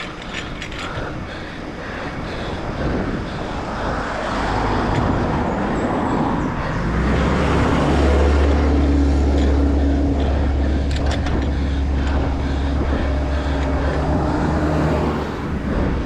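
Road traffic passing close by: a motor vehicle's engine grows louder over a few seconds, then holds as a steady low hum, over road and wind noise.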